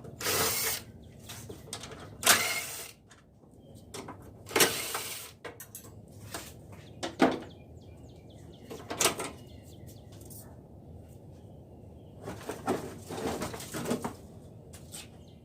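Front bumper cover of a Honda Del Sol being taken off: a series of separate scrapes, clicks and knocks of plastic and fasteners a second or two apart. The sharpest knock comes about two seconds in, and a quick run of scrapes comes near the end.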